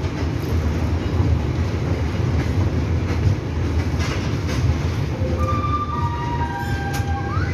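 Express train pulling out of a station: a steady low rumble of coaches rolling on the track, with a few sharp clicks of the wheels over rail joints.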